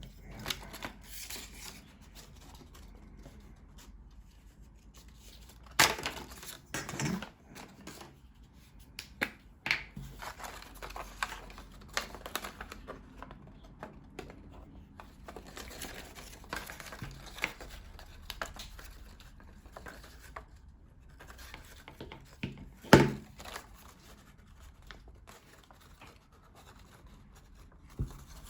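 Printed card model pieces being handled, folded and pressed together: scattered rustles and small clicks, with two louder knocks, one about six seconds in and one about three-quarters of the way through.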